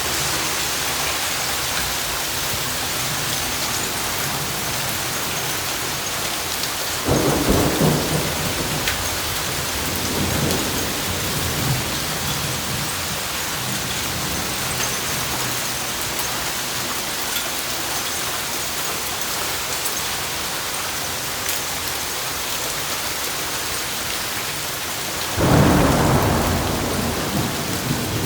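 Heavy rain and hail pouring down in a severe thunderstorm: a steady hiss with scattered faint ticks. Thunder cracks about seven seconds in and rumbles on for a few seconds, and a louder clap comes near the end.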